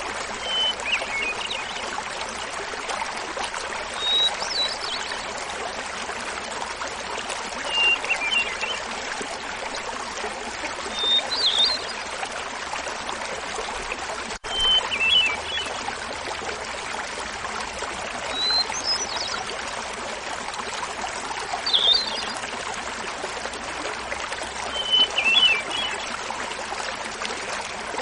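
Hermit thrush singing over a small waterfall's steady babbling. It gives about eight fluty phrases, one every three to four seconds. Each opens on a held whistle and breaks into a higher flourish, each phrase pitched differently from the one before. The sound cuts out for a split second about halfway.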